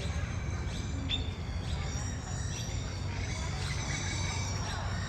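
Several small birds chirping, with short rising chirps coming every half second or so, over a steady low hum.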